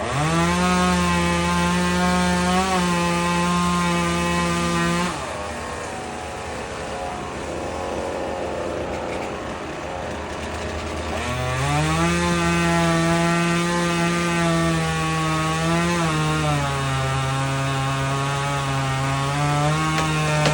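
Chainsaw revved up to full throttle and held, dropping back to idle for about six seconds, then revved up and held again. Partway through the second run its pitch steps down a little and holds lower, as when the chain is loaded in a cut.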